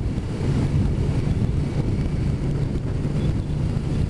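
Wind rushing over a helmet microphone while a motorcycle runs at a steady speed, with a low, even engine drone underneath.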